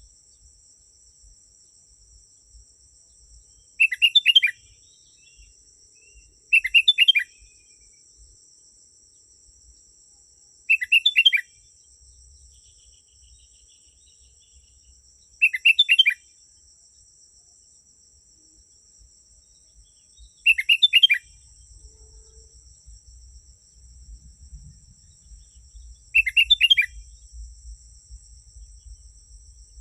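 Sooty-headed bulbul (kutilang) singing: six short chirpy phrases, each about half a second long, a few seconds apart. A steady high-pitched whine runs underneath.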